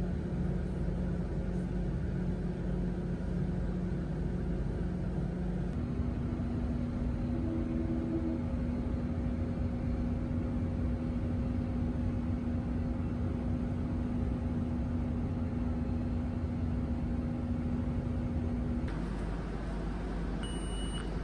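A motor vehicle running at steady speed: a low rumble with a steady engine hum whose pitch jumps once or twice.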